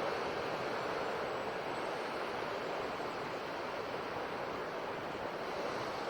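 Sea waves washing on a shore: a steady rush of surf with no single loud break standing out.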